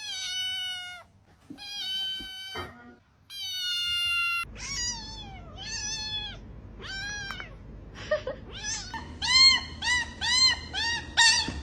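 Cat meowing over and over: three long, level, high meows, then a few rising-and-falling meows, ending in a quick run of about eight short meows.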